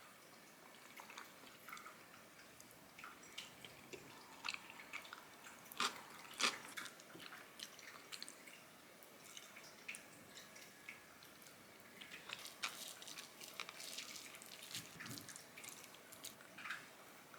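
Faint kitchen handling sounds: scattered small clicks and wet taps, with two sharper knocks about six seconds in.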